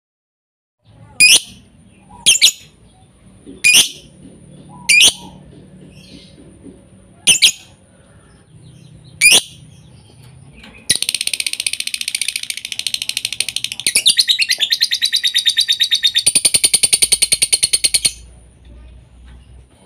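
Lovebird calling: six sharp, separate rising chirps spaced a second or two apart, then a long, very fast chattering trill of about seven seconds that stops suddenly.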